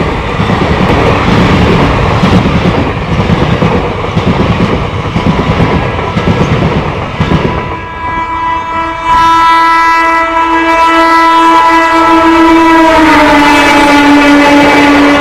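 Railway coaches clattering past over the rail joints; from about nine seconds in, a train horn sounds in one long loud blast that drops in pitch near the end as the train passes.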